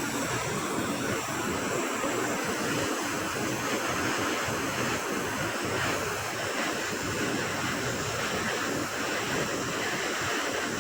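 Blowtorch flame burning steadily, heating a rust-seized pivot to free it.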